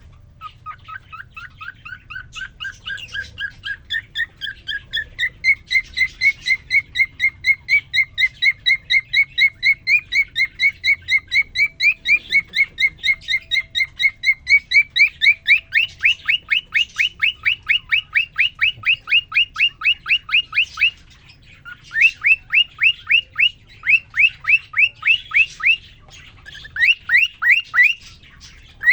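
Male cockatiel singing: a long series of short, rising whistled chirps, about three a second, growing louder over the first few seconds. About halfway the notes jump higher and come quicker, then break into short runs with brief pauses near the end.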